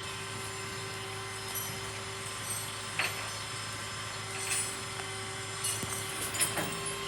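A vehicle engine idling steadily, with a few light clicks and knocks.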